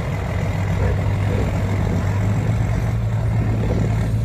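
Heavy off-road trial truck's engine running at steady revs, a constant low-pitched drone.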